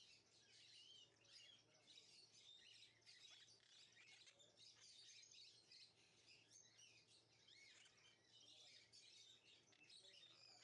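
Very faint birdsong: many small birds chirping and twittering, overlapping throughout, over a low steady hum.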